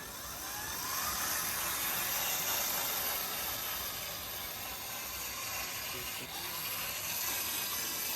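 Small electric motor and plastic gearbox of an RC toy tractor whirring steadily, with a faint whine that rises in pitch now and then.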